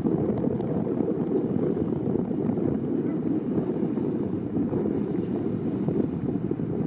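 Steady low rumble of a boat under way, mixed with wind buffeting the microphone.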